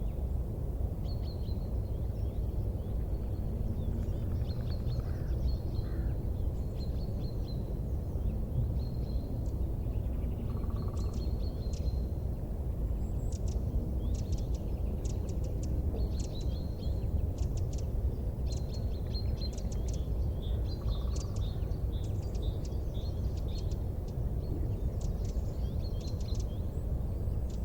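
Wood fire burning in a fireplace: a steady low roar with frequent quick, sharp crackles and snaps. Short high chirps run through it.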